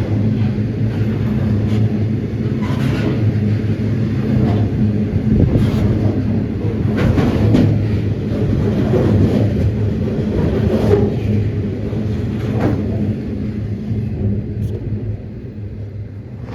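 Freight train hauled by 82 class diesel locomotives passing: a steady engine drone with regular clacks of wheels over the rail joints. It fades away over the last few seconds as the train moves off.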